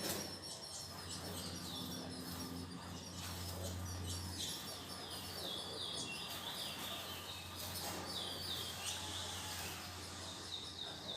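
Ultramarine grosbeaks (azulão) in a breeding cage: runs of short, downward-sliding chirps over a low steady hum. The female's noisy calling marks a false solicitation (gala falsa), a sign that she is not ready to mate.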